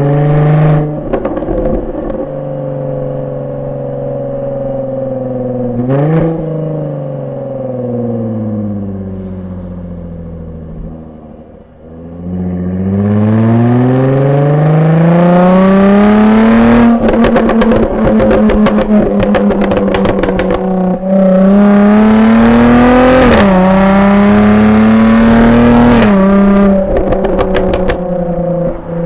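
Jaguar F-Type V6S supercharged 3.0-litre V6 through its stock exhaust in dynamic mode. The engine note falls away for several seconds, then climbs hard under acceleration. Rapid bursts of pops and crackles come from the exhaust, with a gear change about two-thirds of the way in and the note dropping near the end.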